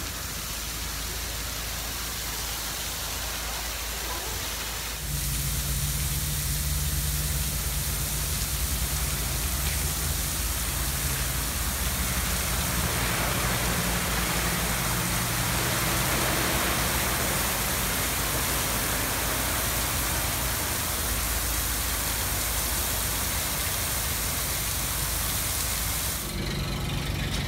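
Steady hiss of artificial rain falling from film-set rain towers, growing louder about five seconds in, over a low steady engine hum.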